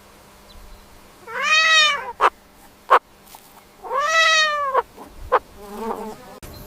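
Domestic cat meowing twice, each meow rising and then falling in pitch, with a few sharp clicks after each meow. A fainter, shorter call comes near the end.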